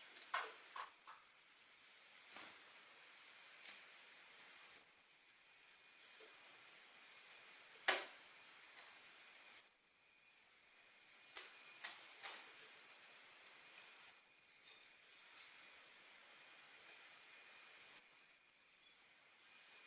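Orange-headed thrush (anis merah) giving its thin, high 'ngecis' call: five sharp whistles, each sliding downward for about a second, about every four to five seconds. A faint steady high tone and a few soft clicks sit behind the calls.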